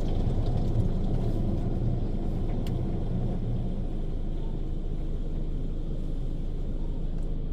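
Mark VII Aquajet automatic car wash running through its rinse pass, heard from inside the car's cabin as a steady low rumble.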